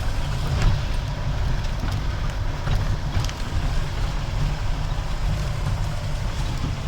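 Jeep running: a steady low rumble with a few light rattles and clicks.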